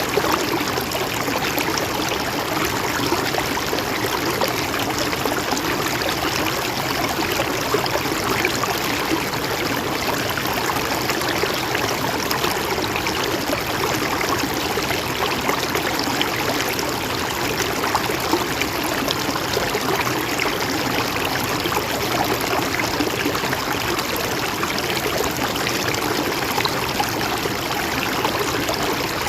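Mountain stream of shallow water running steadily over rocks, a continuous rush with a trickling, splashing texture.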